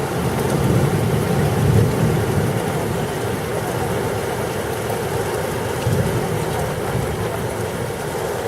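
Steady rain pouring during a thunderstorm, with a low rumble of thunder that swells twice, first in the opening couple of seconds and again later on.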